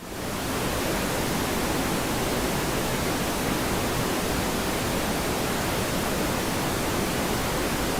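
Waterfall: a steady rush of falling water that fades in at the very start and then holds even.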